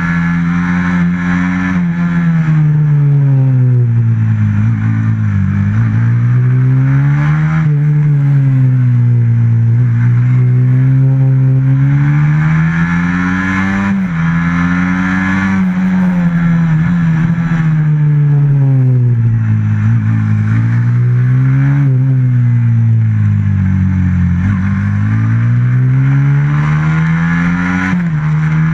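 Motorcycle racing engine, a stock FXR150, lapping a tight track: the revs climb and fall again and again every few seconds as it accelerates out of corners and backs off into the next, with several sudden drops in pitch.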